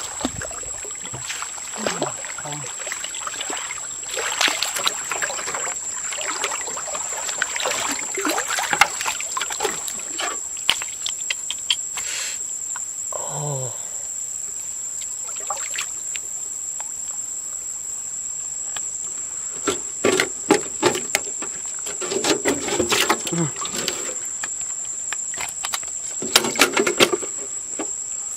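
Water splashing and sloshing in irregular bursts, busiest near the end, over a steady high-pitched whine.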